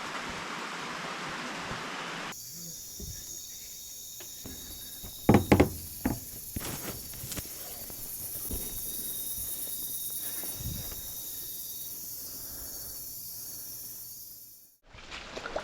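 A steady, high insect chorus of rainforest insects, with a few sharp knocks about five seconds in; the first two seconds are rustling noise.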